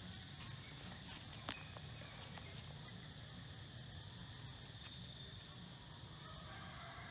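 Insects trilling steadily in a high, even tone over a low steady rumble, with one sharp snap about a second and a half in and a few faint ticks.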